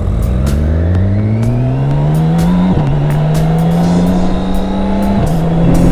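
BMW K1600B's inline-six engine accelerating through the gears: the pitch rises steadily, then drops sharply at an upshift about three seconds in and again near the end.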